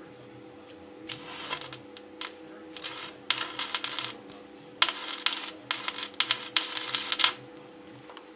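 Metal clinking and scraping in irregular bursts, over a steady background hum.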